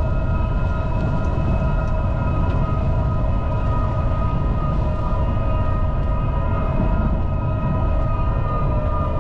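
A car driving steadily on a wet road in the rain: a constant low rumble of tyre and road noise with a steady whine of several held tones over it.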